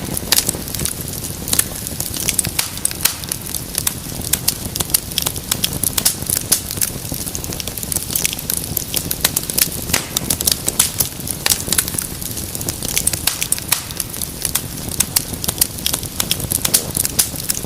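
Wood fire crackling steadily in a fireplace: dense, irregular sharp pops and snaps over a low, even rumble of the flames.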